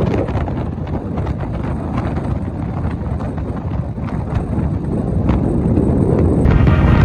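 Wind buffeting the microphone: a loud, steady low rumble. Music comes in near the end.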